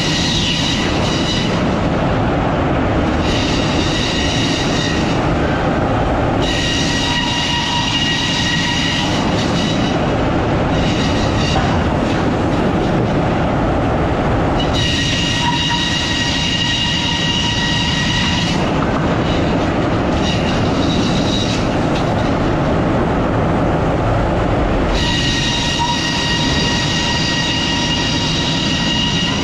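Sawmill machinery running steadily, with a saw blade's high squealing whine coming in again and again for one to four seconds at a time as it cuts through logs.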